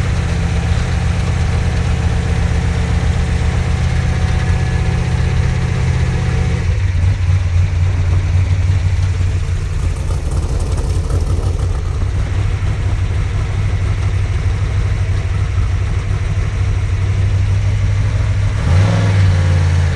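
Trophy truck engine running steadily at low revs, a deep rumble whose note drops to a lower, steadier pitch about seven seconds in.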